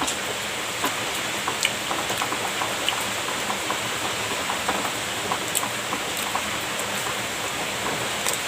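Heavy rain falling, a steady hiss dotted with many small sharp drop ticks.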